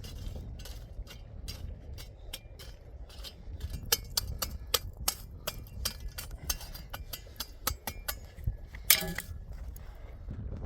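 Irregular sharp clinks and knocks of hard objects, several a second at times, with one brief ringing scrape about nine seconds in, over a low steady rumble.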